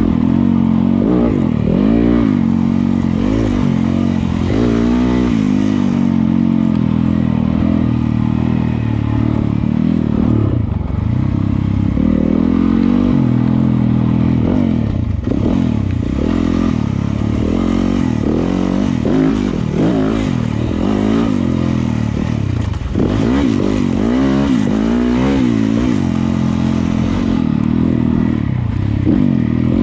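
Yamaha YZ250FX dirt bike's single-cylinder four-stroke engine being ridden on a trail, its pitch rising and falling again and again as the throttle is opened and closed.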